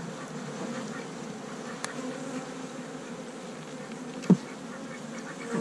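Honey bees buzzing steadily around an open hive, with a single sharp knock about four seconds in.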